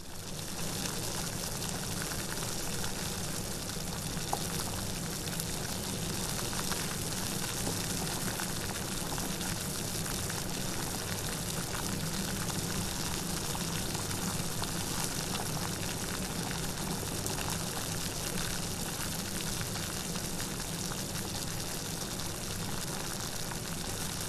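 Steady, even rain falling, a constant hiss of many drops with no thunder.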